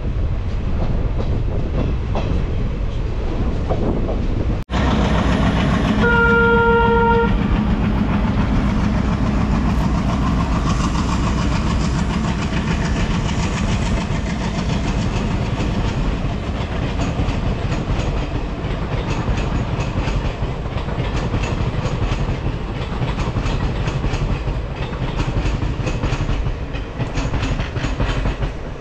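Moving express train: a steady rumble of the coaches with wheels clattering over rail joints, and one locomotive horn blast about six seconds in, lasting just over a second.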